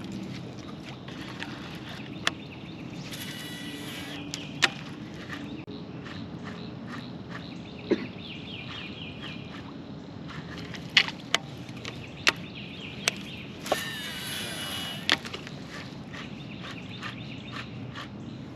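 Outdoor ambience with birds calling: chirps throughout and two longer buzzy calls, about three seconds in and again about fourteen seconds in. Scattered sharp clicks and knocks are heard over a steady background hiss.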